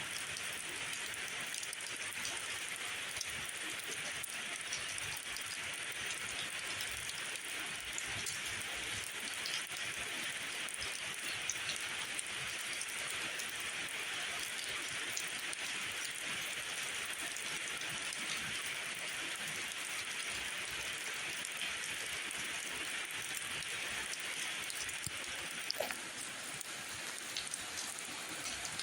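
Steady rain falling: a continuous even hiss with scattered sharper drop ticks, and one louder tick near the end.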